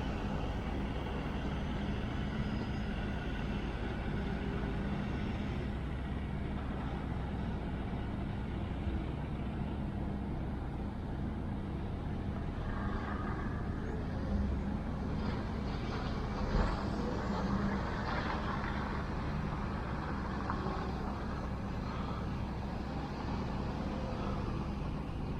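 Steady rolling rumble of a mountain bike being ridden, its tyres running over the track, with a few small bumps about two thirds of the way through.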